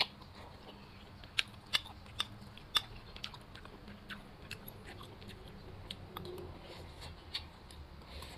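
A person chewing a mouthful of rice and vegetable soup, with sharp clinks of a metal spoon against a glass rice bowl, several in quick succession in the first few seconds and a few more later.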